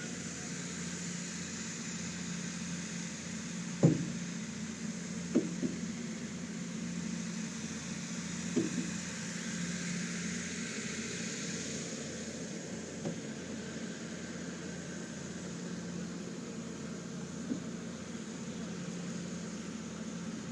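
Steady hum of running machinery with a high hiss, broken by a few sharp knocks, the loudest one about four seconds in.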